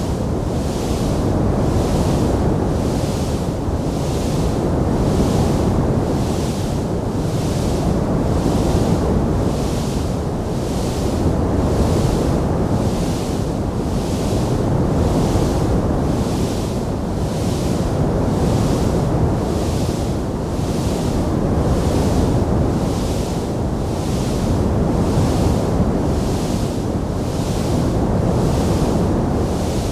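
Wood fire burning in a fireplace: a steady low rushing noise, with a hiss in the highs that swells and fades very regularly, about once a second.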